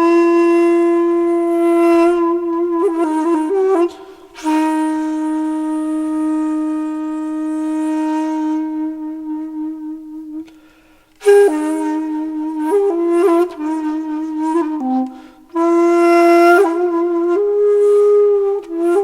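Solo wind-instrument music: a slow, flute-like melody of long held notes with small ornamental turns, broken by a few short pauses.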